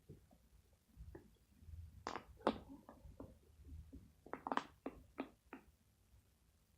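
Glue-and-detergent slime being squeezed and mixed by hand, giving irregular sticky squelches and pops in two clusters, one about two seconds in and another about four and a half seconds in.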